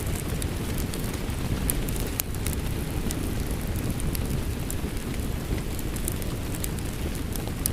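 Rain mixed with a crackling fireplace: a steady low rumble of rain with scattered sharp pops and crackles from burning wood.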